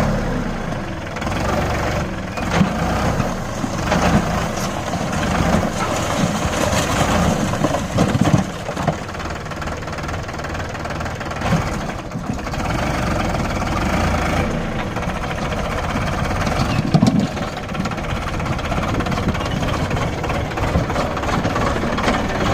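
Tractor diesel engine running continuously, its level surging up and down, with a few sharper, louder moments.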